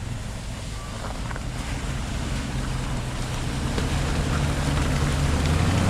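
Off-road SUV engine running steadily under way, a low hum over a constant rushing noise, growing a little louder toward the end.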